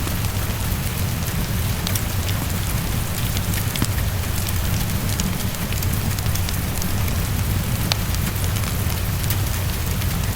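Heavy rain falling steadily against a window, with a steady low rumble underneath. Scattered sharp crackles of a wood fire pop through it.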